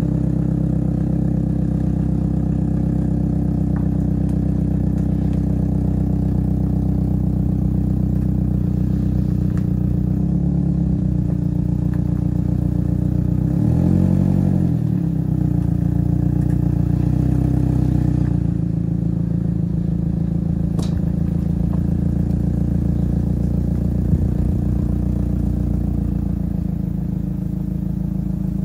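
Vehicle engine idling close by, briefly revved up and back down about ten seconds in and again, harder, around fourteen seconds in; its note shifts at about eighteen seconds, and there is a single click near twenty-four seconds.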